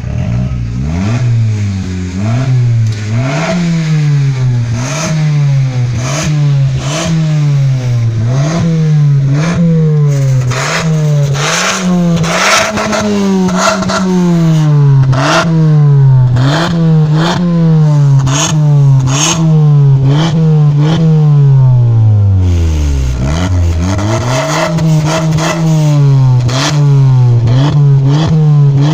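Car engine revved in quick repeated blips through an exhaust fitted with an electronic cutout valve, the pitch rising and falling about once a second, with sharp pops among the revs. About two-thirds of the way through it drops briefly toward idle before revving again.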